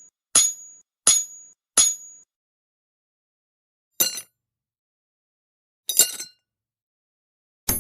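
Sharp metallic clinks with a short ring: three at an even beat in the first two seconds, then single strikes about four, six and nearly eight seconds in.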